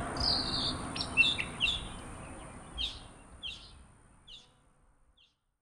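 Birds chirping in short, separate calls over a low outdoor background hiss, the whole fading out to silence near the end.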